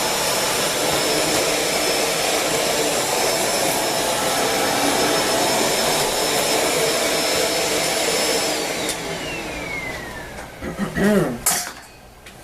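Shark Rotator Speed Lift-Away upright vacuum cleaner running steadily with a high motor whine. It is switched off about eight and a half seconds in, and the whine falls in pitch as the motor spins down. Near the end there is a short wavering sound and a click.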